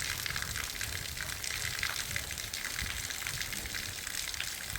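Heavy rain falling steadily, a dense hiss of many small drops.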